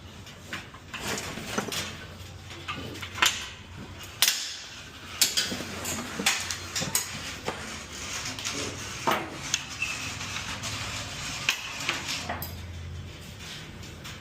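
Metal delivery carts rattling and clanking as they are pushed and handled, with a string of sharp knocks, the loudest a few seconds in and around the middle.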